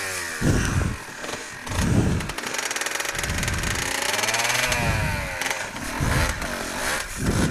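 Pit bike engine running and revving up and down several times, with repeated low rumbling swells.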